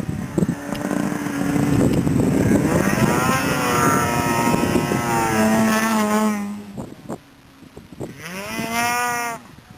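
Snowmobile engine revving, its pitch climbing and falling from about three seconds in, dropping away near seven seconds, then a shorter rev near the end.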